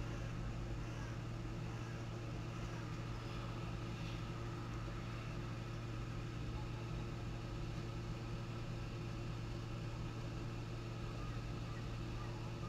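Steady low electrical hum with a constant hiss, unchanged throughout, with no distinct events standing out.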